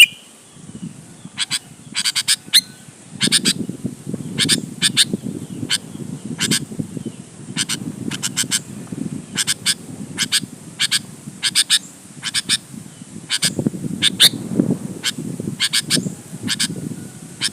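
Sooty-headed bulbul calling in quick runs of short, sharp notes, repeated throughout. A continuous low rough murmur runs beneath.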